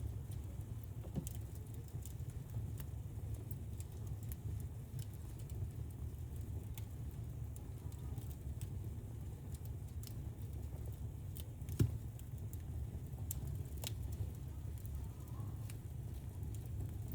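Wood fire burning in a fireplace: a steady low rumble of flames with scattered crackles and pops, and one louder pop about twelve seconds in.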